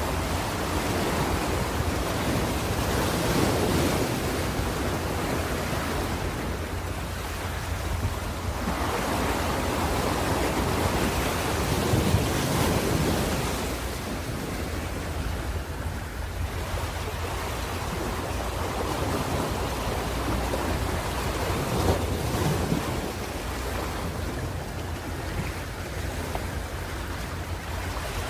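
Ocean waves breaking on a shore in a continuous wash, swelling and easing every few seconds, with a low rumble of surf.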